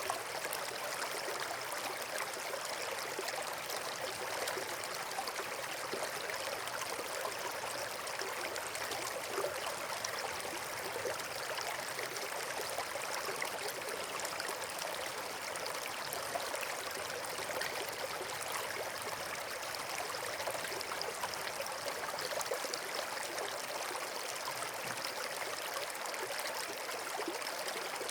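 Steady rushing of flowing water, like a stream or small waterfall, an even hiss with no clear pops or crackles.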